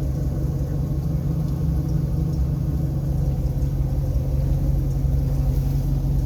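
A Rinker 232 cuddy cabin boat's engine running steadily with a low, even hum.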